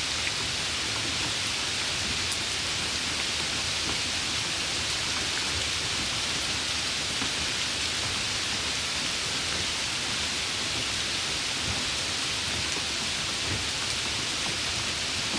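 Steady rain falling, an even, unbroken hiss with no let-up or change.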